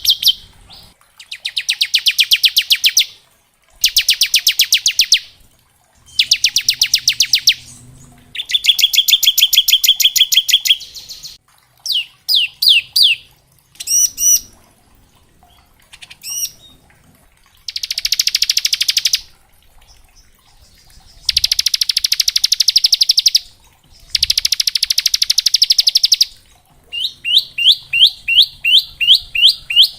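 Bar-winged prinia (ciblek) singing: a string of rapid, dry rattling trills, the 'ngebren' rattle, each lasting one to two and a half seconds, seven in all. Between them come short runs of separate sweeping notes, about halfway through and again near the end.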